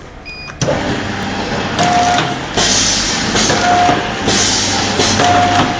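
Automatic liquid-filling and plastic-bag packaging machine switched on: a short beep, then the machine starts about half a second in. It runs in a repeating cycle about every second and a half, with a hissing burst and a brief steady tone in each cycle.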